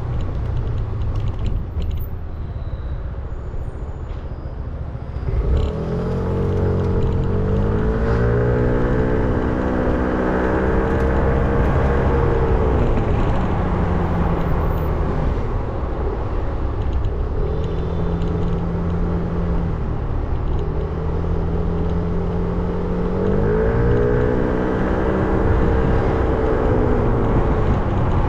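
A 300 cc motorcycle engine on the move. It runs low and rough for the first few seconds, then pulls away, its revs rising and dropping in steps through the gears, easing off midway and picking up again later.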